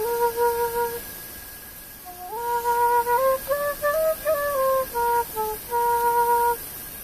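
A solo flute playing a slow melody: a held note at the start, a short pause, then a longer phrase that scoops up, moves stepwise through several notes and settles on a held note before stopping near the end.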